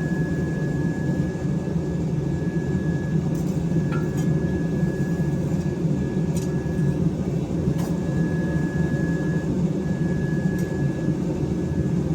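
Steady low roar of a running forge, with a thin high whistle over it that breaks off several times and a few faint clicks.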